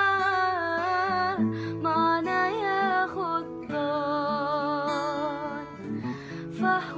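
A woman singing long held, melismatic notes over a plucked guitar-like accompaniment.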